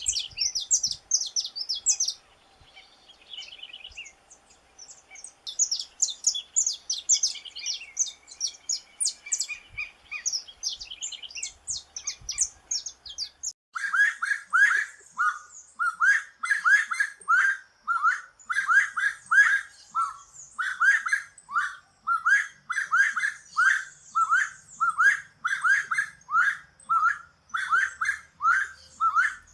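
Saffron finch singing. High, quick chirping phrases with short pauses give way about halfway through to a steady run of lower repeated notes, about two a second.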